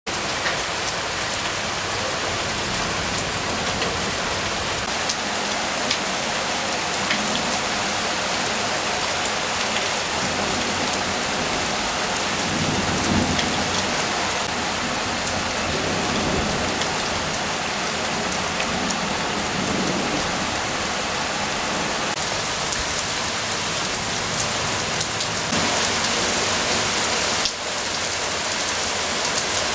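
Heavy rain falling steadily, a dense hiss dotted with faint drop ticks, with a low rumble swelling briefly about twelve seconds in.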